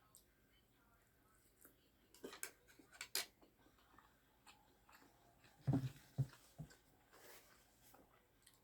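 Eating sounds close to the microphone: a few short sharp clicks and smacks, then a couple of louder soft low thumps about six seconds in.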